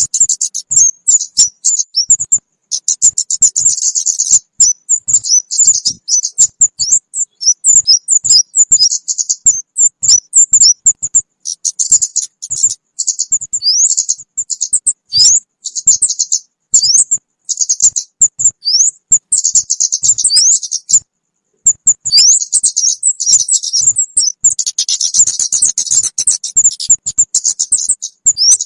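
Kemade bird call recording used as a trapping lure: rapid runs of short, high-pitched chirps and quick sweeping notes, loud and nearly continuous, with a brief break about 21 seconds in and a denser, fuller run of calls near the end.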